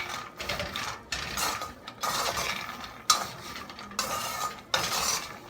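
Peanuts being stirred in a dry roasting pan, a spatula scraping the pan and the nuts rattling over its surface in about six strokes, roughly one a second.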